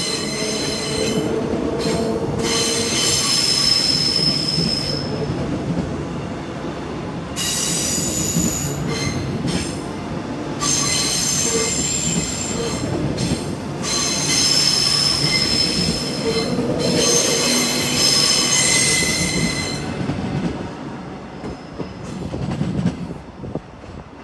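Train rolling past with its steel wheels squealing in repeated high-pitched stretches over a steady rumble, the squealing stopping and the sound fading over the last few seconds.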